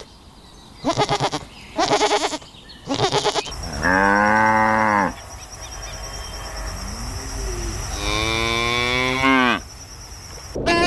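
Three short, quavering bleats, then two long cow moos about four seconds apart.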